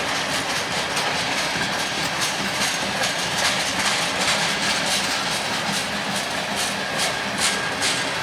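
Freight train cars rolling past, their wheels clicking over the rail joints in a steady run of clicks.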